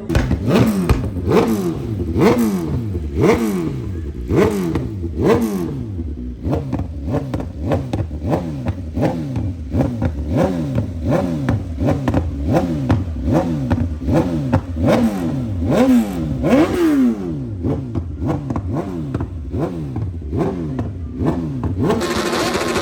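A high-performance engine being revved again and again in quick throttle blips, about one a second, its pitch falling back after each blip.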